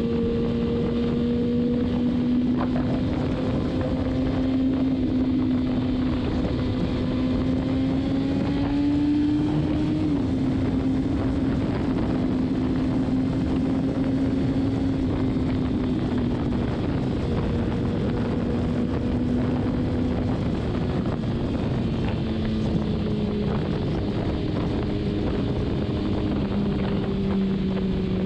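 Kawasaki Ninja ZX-6R's inline-four engine at highway cruise, a steady engine note under heavy wind noise on the microphone. The note rises a little, then drops suddenly about ten seconds in, as at a gear change, and sags slowly lower near the end as the bike eases off.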